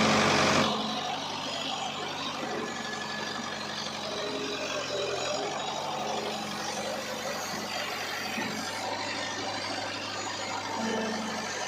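Heavy diesel engine running steadily at a low, even pitch, louder and harsher for about the first half second.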